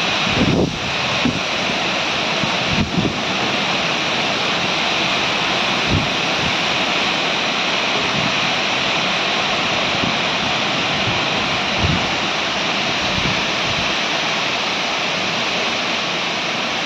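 Heavy rain falling in a steady, dense hiss. Wind gusts buffet the microphone in the first few seconds, and there are a couple of brief low bumps later on.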